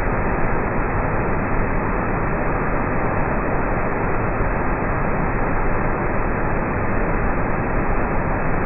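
Waterfall swollen by a flash flood, a heavy torrent of water rushing steadily without a break.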